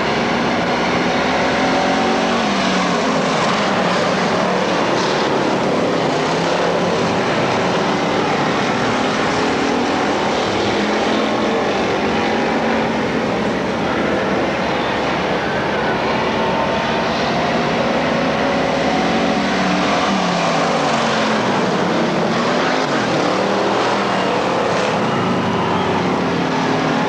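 Several dirt-track race car engines running together at racing speed, their pitch rising and falling over and over as the cars rev through the turns and pass by.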